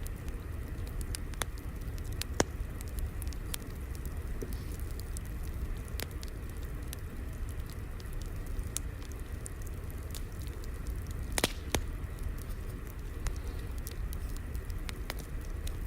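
Fire crackling: a steady low rumble with scattered sharp pops and snaps. A louder snap comes about two seconds in, and a quick cluster of pops about eleven seconds in.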